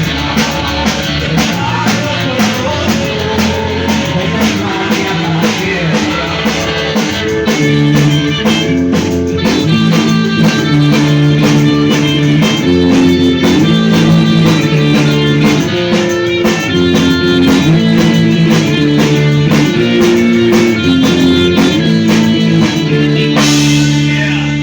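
Live punk rock band playing: fast, steady drumming under distorted electric guitar chords, with no singing in this stretch. The drums stop about a second before the end while the guitar chord rings on.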